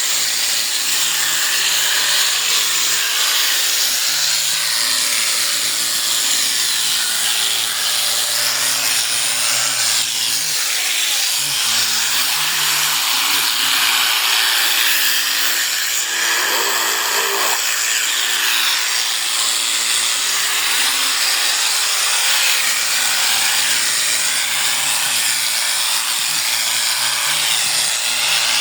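Electric sheep shearing clippers running steadily with a high hiss, their low motor hum shifting up and down in pitch now and then.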